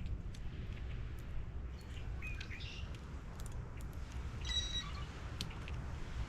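Wild birds calling a few times over a steady low background rumble: short chirps about two seconds in, then a brief call with overtones about four and a half seconds in.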